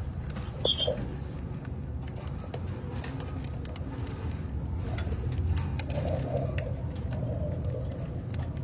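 Steady low background rumble, with one short, sharp bird chirp about a second in and scattered light clicks throughout.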